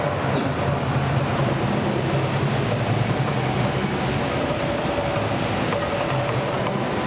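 Mirage volcano show in eruption: a steady, loud rumbling roar with a few low tones held under it.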